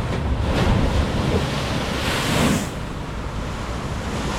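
Rough surf with waves crashing, one big crash about two seconds in, over wind buffeting the microphone.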